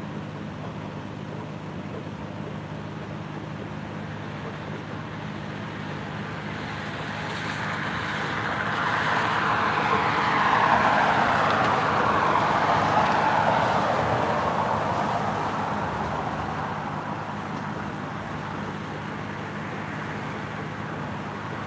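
A road vehicle passing by: its noise swells for several seconds, peaks about halfway through and fades away, over a steady low hum.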